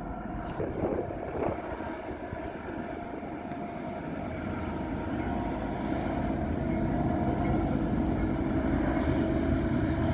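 Freight train rolling along, a steady rumble of locomotives and cars that grows slowly louder.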